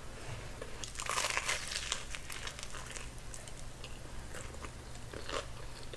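Crispy batter-fried Korean corn dog being bitten and chewed: a burst of crunching about a second in, then scattered crunches as it is chewed.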